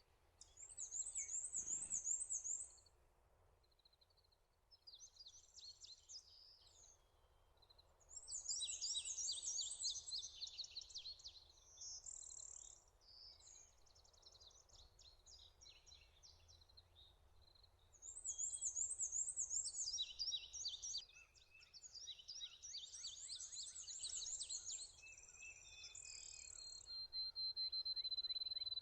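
Several songbirds singing in bouts of high, fast, rapidly repeated trilled notes, often overlapping, with quieter gaps between bouts. A long, steady high whistle comes near the end.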